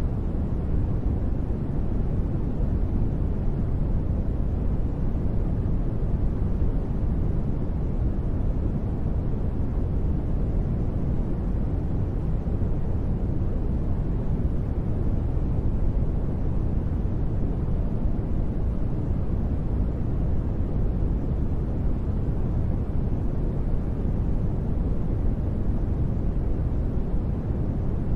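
Continuous synthetic sleep noise, steady and unchanging, deep and rumbling with most of its weight in the low end and little hiss on top.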